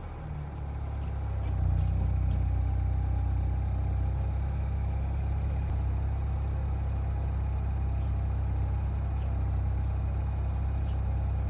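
Seat Leon FR's 1.5 eTSI four-cylinder petrol engine idling steadily, heard through its exhaust.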